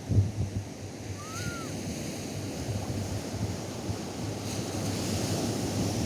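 Atlantic surf washing up a sandy beach, the wash swelling and hissing louder over the last couple of seconds, with wind buffeting the microphone in low gusts. A faint short call that rises then falls comes about a second in.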